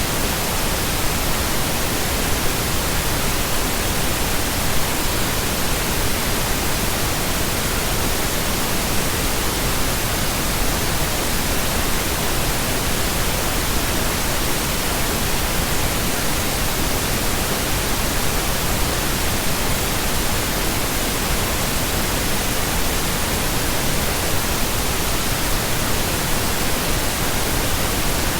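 Steady, unbroken pink noise: an even hiss that stays the same throughout.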